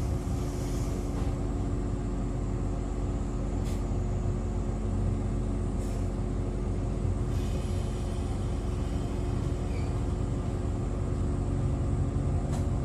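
Inside an Echizen Railway MC6101 electric railcar: a steady low rumble with a constant hum, and three short sharp clicks spread through it.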